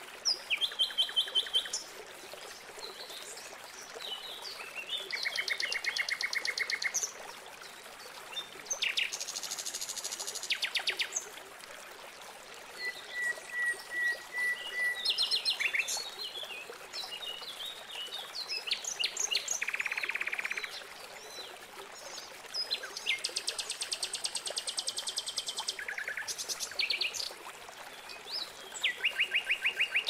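Several songbirds singing: trills of rapidly repeated notes, each lasting a second or two at different pitches, mixed with short chirps, over a faint steady hiss.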